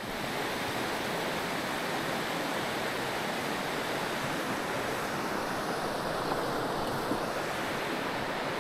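Mountain stream water rushing and splashing over rocks, a steady even noise.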